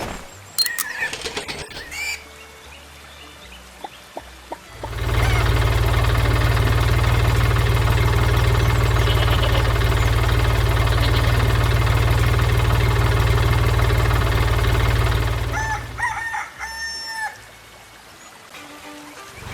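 Chickens calling and a rooster crowing. A loud, steady low rumble fills the middle of the stretch, and short pitched calls return near the end.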